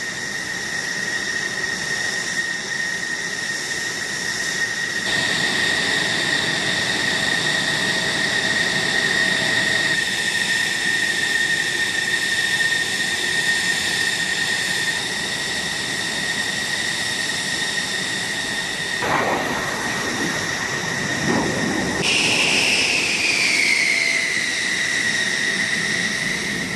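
Military jet engines running with a steady high whine. The sound changes abruptly several times, and near the end the whine falls in pitch.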